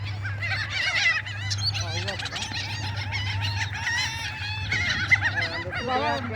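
A flock of birds calling all at once: many short, overlapping chirping and squawking calls over a steady low hum.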